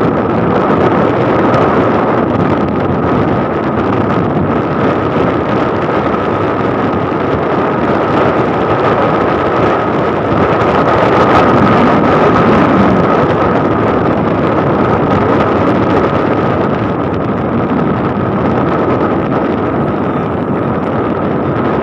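Wind rushing over the microphone of a moving motorcycle, loud and steady, with the bike's engine and road noise underneath and a thin steady whine throughout.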